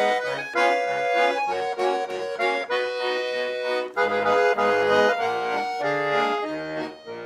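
Russian garmon (button accordion) playing an instrumental song introduction: a sustained melody over an alternating bass-and-chord accompaniment, softening near the end.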